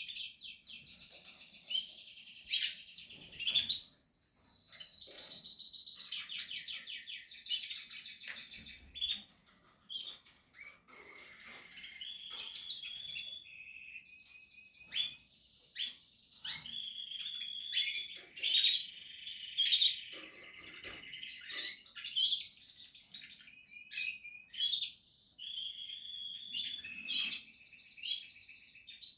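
Portuguese harlequin canary singing a long, continuous song of fast trills and rolling repeated notes. A few sharp clicks are mixed in.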